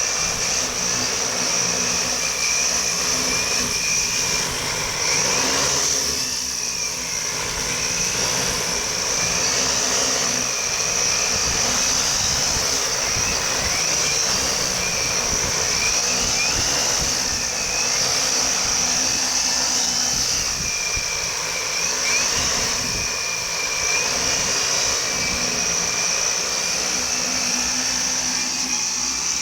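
Multirotor camera drone with large propellers flying, its electric motors whining at a pitch that wavers up and down as the throttle changes, over a steady high hiss. Wind buffets the microphone with an uneven low rumble.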